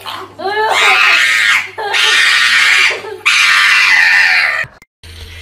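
A dog howling, three long, loud wails, each over a second, cut off abruptly near the end.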